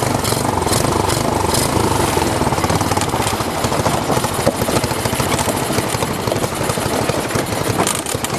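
150cc GY6 four-stroke single-cylinder engine of a mini monster truck running steadily, with a rapid, even pulse.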